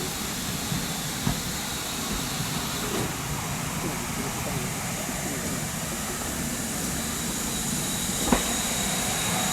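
Steam-hauled heritage train moving slowly, with a steady hiss of steam and one sharp knock near the end.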